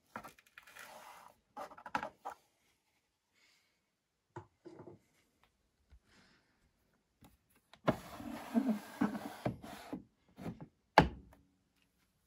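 Handling noises at a front-loading washing machine: rustling and scattered knocks, then a busier stretch of rustling and bumping, and a single sharp thunk a little before the end.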